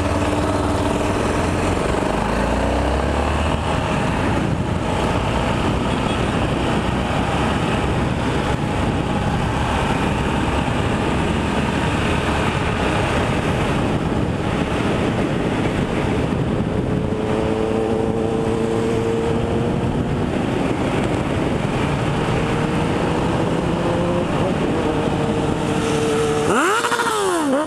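Motorcycle engine running under way, with a steady rush of wind noise. The engine pitch climbs as it accelerates near the start and again about two-thirds of the way in.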